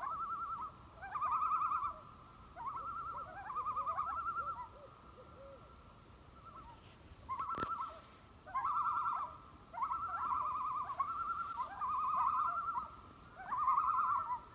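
A bird calling: a string of wavering, trilled calls, each under a second long, repeated about a dozen times with short gaps. A single sharp click comes about halfway through.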